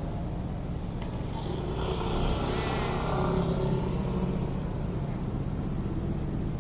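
Urban outdoor ambience with a steady traffic rumble and faint distant voices. A somewhat louder, higher sound rises over the rumble for a couple of seconds in the middle.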